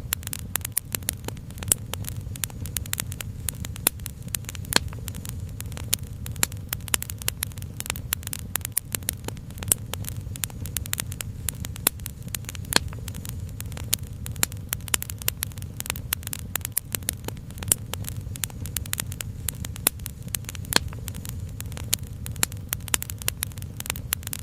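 Wood fire crackling, with dense, irregular sharp pops over a low steady rumble.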